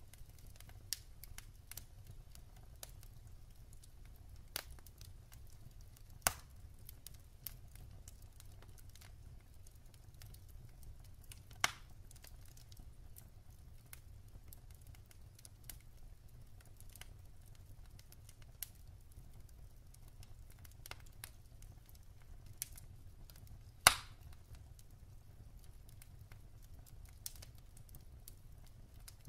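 Wood fire in a fireplace crackling: scattered irregular pops and snaps of burning logs, a few sharper ones standing out, the loudest about three quarters of the way through, over a faint low rumble.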